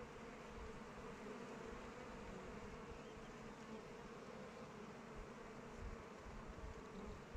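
Many bees flying around their hive: a steady, even hum.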